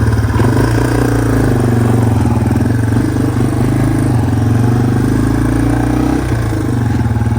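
Yamaha TW200's single-cylinder four-stroke engine running at a steady, even pitch.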